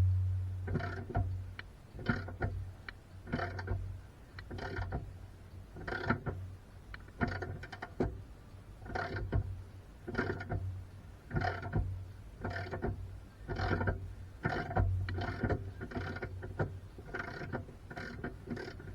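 A hand tool worked in steady repeated strokes, about one stroke every 1.2 seconds, over a steady low hum.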